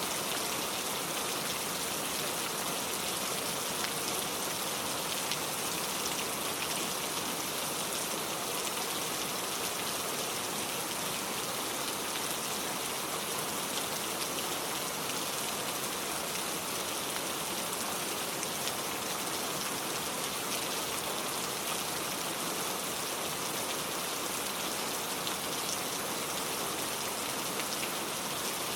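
Steady rain falling in a forest, an even hiss of drops with fine scattered patter on leaves and ground.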